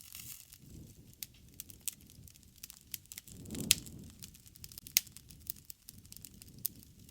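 Wood bonfire crackling, sharp pops scattered throughout over a low rush of flame. The fire swells briefly about halfway through, with the loudest pop there and another strong one about five seconds in.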